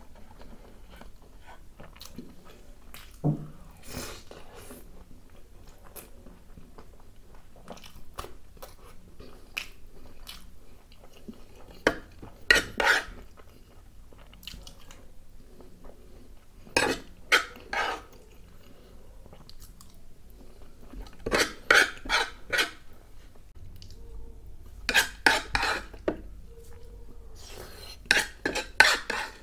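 Close-miked eating: a man chewing soft naan and curry, with clusters of wet mouth smacks every few seconds and small clinks of a spoon against the serving pan.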